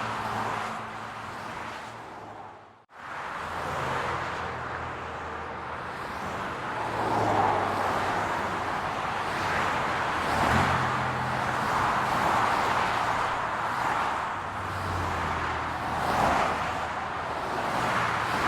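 City road traffic: cars passing one after another, each swelling and fading with tyre noise and a low engine hum. The sound drops out almost completely for a moment about three seconds in, then resumes.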